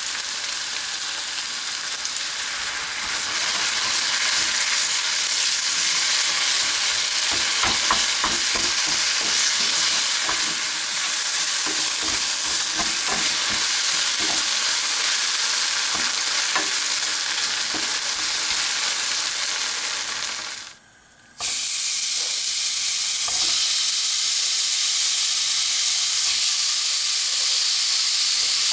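Food sizzling as it is stir-fried in a pan, with a utensil knocking and scraping against the pan now and then. The sizzle cuts out for about half a second near two-thirds of the way through, then carries on.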